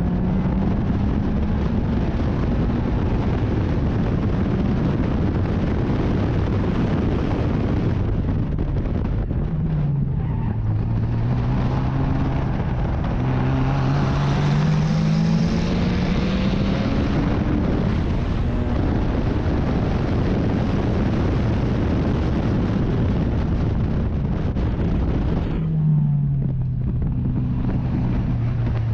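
Race car engine running hard at racing revs; its pitch drops sharply about ten seconds in and again near the end, as for braking and downshifting, and climbs in between as it accelerates.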